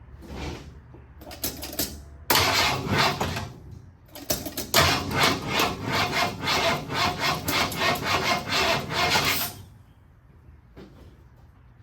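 1973 Ford F100's starter cranking the engine in two tries, a short one and then about five seconds of even turning-over pulses at roughly three a second. It stops suddenly without the engine catching: after a fresh tune-up it does not start.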